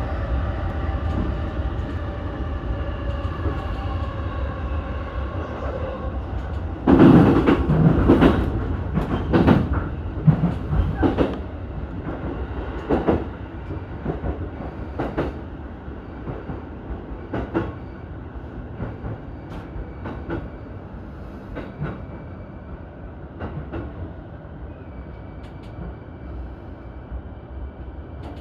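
Electric commuter train slowing into a station, heard from on board: the motors' tonal whine dies away about six seconds in, then a run of loud clacks as the wheels cross the points, the knocks growing sparser and quieter as the train slows.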